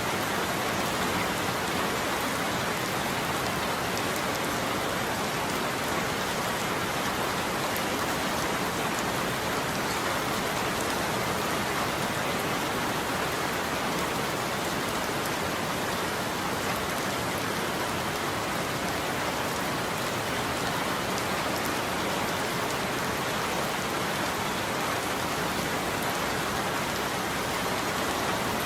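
Steady heavy rain falling on a surface, an even unbroken hiss with fine drop patter and no thunder clap.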